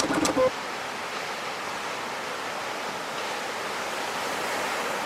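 Ocean surf: a steady, even wash of breaking waves. A last bit of background music with guitar and drums cuts off about half a second in.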